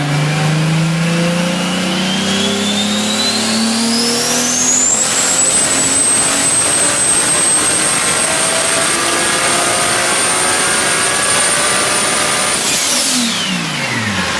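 Turbocharged engine revving up under load, its turbo whistle rising for about five seconds, holding at a steady high pitch, then falling away quickly near the end as the revs drop.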